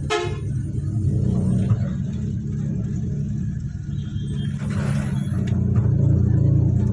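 Goods lorry engine and road rumble while driving, a steady low drone that gets louder about five seconds in. A brief higher-pitched sound comes right at the start.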